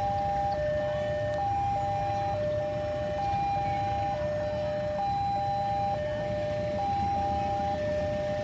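Railway level-crossing warning alarm sounding two alternating tones, a higher then a lower one, each about two-thirds of a second long, repeating steadily over a low rumble.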